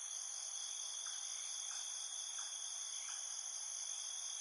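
A steady chorus of insects trilling in several high, unbroken bands, with faint short chirps about every two-thirds of a second beneath it.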